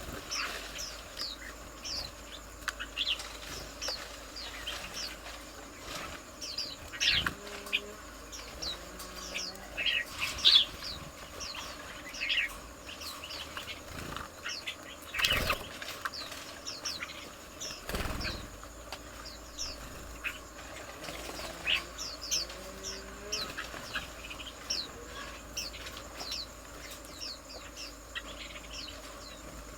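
Small garden birds chirping: many short, high, falling calls, scattered and overlapping, a few louder than the rest. A steady high drone, like insects, runs underneath.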